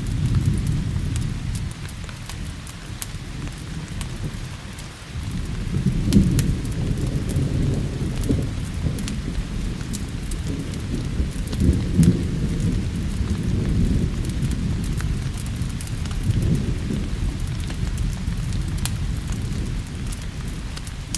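Thunderstorm: rolling thunder rumbling low and swelling several times over steady rain, with scattered sharp ticks.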